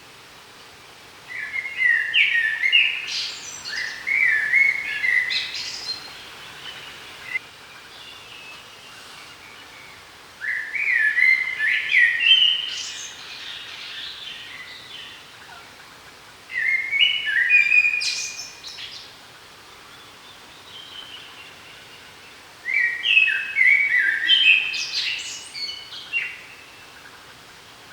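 A songbird singing four separate song phrases, each two to four seconds of quick, varied, high notes, repeated about every six seconds over faint steady outdoor background noise.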